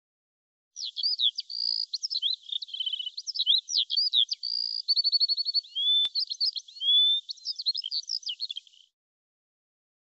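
A songbird singing a fast, varied, high-pitched song of chirps, whistles and short trills, starting about a second in and stopping near the end.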